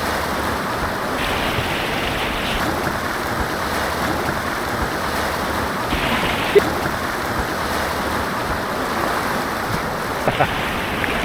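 Steady rush of fast white water on an artificial white-water course, heard close from a kayak.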